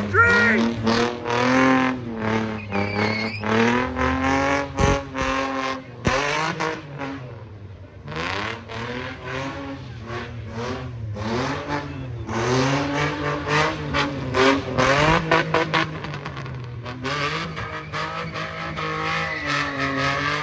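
Car engines revving hard at a street sideshow, the pitch climbing and dropping again and again as the cars are driven around.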